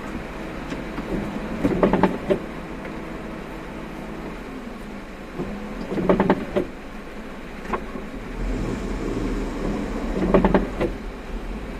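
Car driving, heard from inside the cabin: a steady low road rumble, with a short burst of clattering knocks three times, about four seconds apart.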